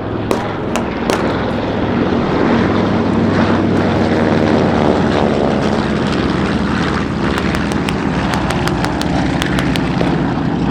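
Propeller-driven piston-engine aircraft flying past, its engine note bending in pitch as it passes a few seconds in, with scattered sharp pops.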